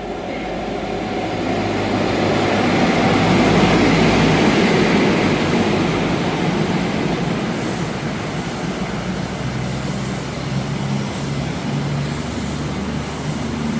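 A diesel train moving through the station: a broad rumble swells to its loudest about four seconds in, then runs on steadily, with a low engine hum becoming clearer in the later seconds.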